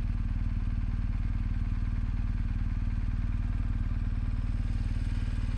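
BMW R1250GSA's boxer-twin engine running steadily at low revs, with an even pulsing note that neither rises nor falls.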